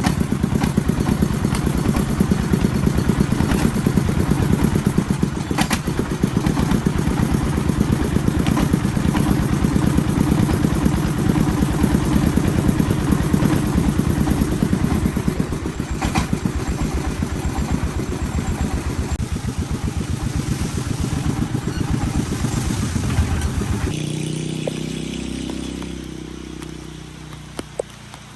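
Engine of an agricultural transport vehicle running under way with a fast, even beat. Near the end it drops to a lower, steadier idle and fades away.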